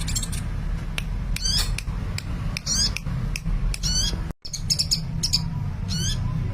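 Sunbird (an Indonesian 'kolibri') singing: short, high, wavering chirp phrases repeated about once a second, with sharp ticks between them, over a steady low hum. The sound cuts out for an instant a little past four seconds in.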